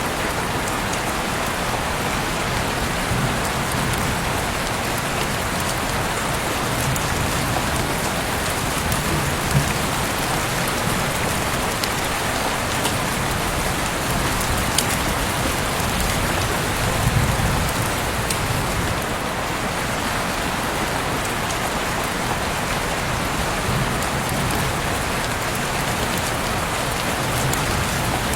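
Heavy rain pouring steadily, a dense even hiss with scattered sharper drops ticking through it.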